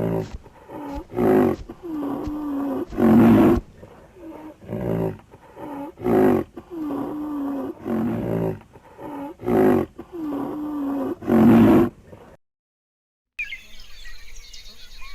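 Lion roaring: a long series of loud roars and grunts, a second or two apart, that breaks off about twelve seconds in. After a short silence comes a quieter outdoor background with bird chirps.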